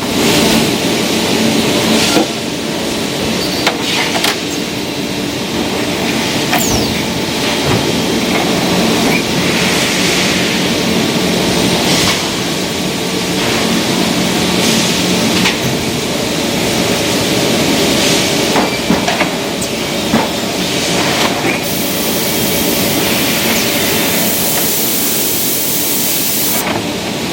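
Lid sealing machine running through one working cycle: a steady machine hum with patches of hiss and scattered clicks and knocks from its mechanism.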